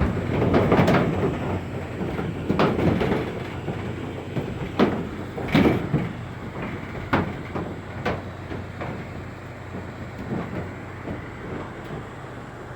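Cattle hooves clattering and banging irregularly on the metal floor and ramp of a livestock truck as the animals are unloaded, over a steady low hum. The knocks thin out after about six seconds.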